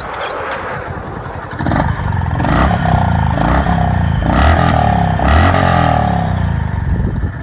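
Honda CB350 RS's air-cooled 348 cc single-cylinder engine and exhaust, idling with a thump and then revved in a string of throttle blips from about two seconds in, dropping back near the end.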